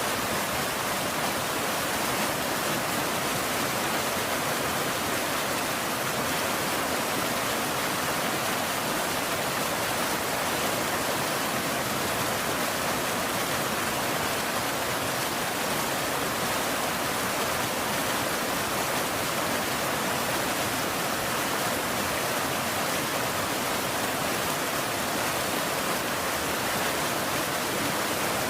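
Steady rain, a continuous even hiss with no thunder or single drops standing out.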